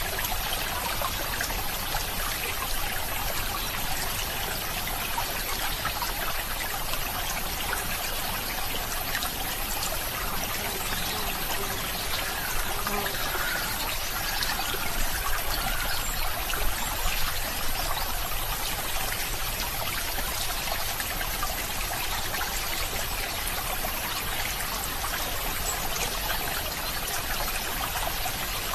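Running water of a stream trickling and splashing steadily, with a few slightly louder splashes around the middle.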